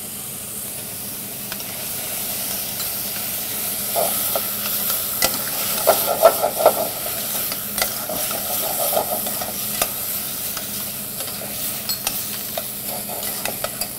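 Diced vegetables, walnuts and tomato paste sizzling in oil in a stainless steel saucepan as they are roasted, with a steady hiss. Stirring against the pot adds scattered clicks and scrapes, busiest in the middle.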